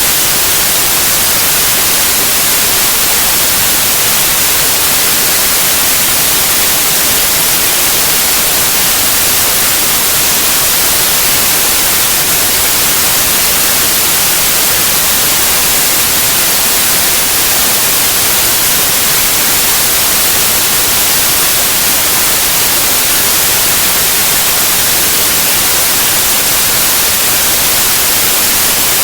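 Steady, loud white noise: an even hiss with no change, strongest in the high frequencies.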